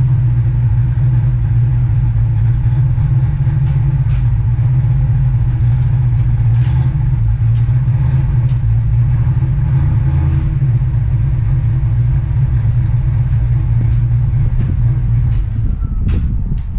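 Capri car engine idling steadily with an even low hum; just before the end the hum breaks up and a few sharp clicks are heard.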